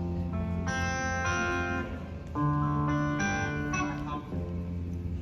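Live band playing an instrumental passage: plucked guitar chords ringing over a steady held bass, with no singing.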